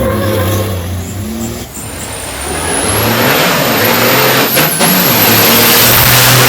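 Big truck engine running hard, getting steadily louder over the last few seconds under a rising high whistle and a strong hiss.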